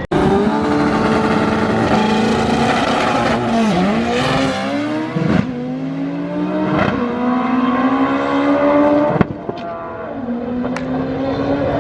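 Drag racing car accelerating hard, its engine note climbing steadily and dropping back at each of three upshifts.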